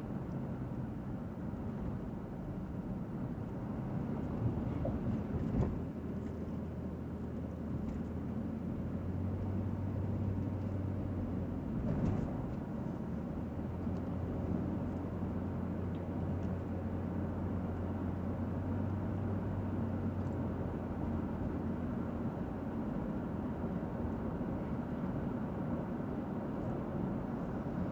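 Road and engine noise from a car being driven, heard from inside the cabin: a steady low drone, with a couple of faint knocks.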